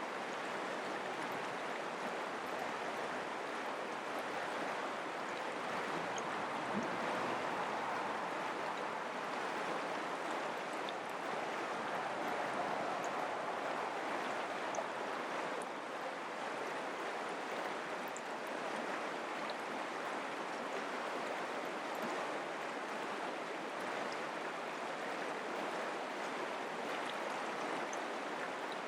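Mountain creek flowing: a steady, even rush and babble of running water.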